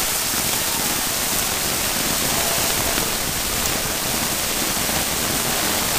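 Steady, even rush of water in a flood, with no breaks or separate splashes.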